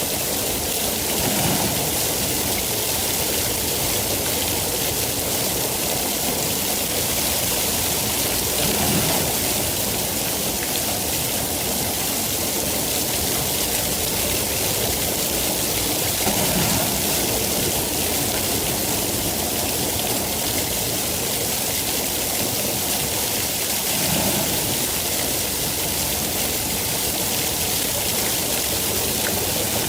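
Steady heavy rain: a dense, even hiss, with a brief low swell about every seven or eight seconds.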